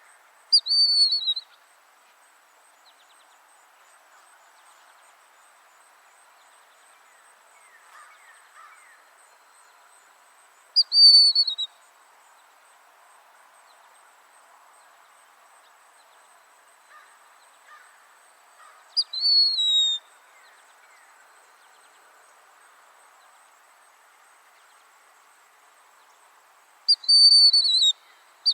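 A bird calling four times, about eight seconds apart: each call is a short, high, whistled note that falls in pitch, over a faint steady background hiss.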